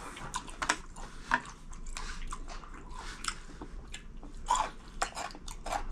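Crunching and chewing of seasoned cucumber salad (oi-muchim), a run of crisp crunches as it is bitten and chewed.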